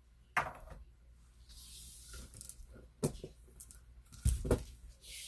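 Handling noise: a few sharp clicks and knocks with some soft rustling between them, the strongest a pair of knocks about four seconds in.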